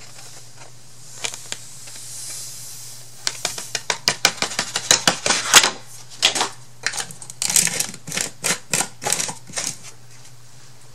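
A quick run of light taps and knocks of small hard objects on a tabletop, several a second, starting a few seconds in and stopping near the end.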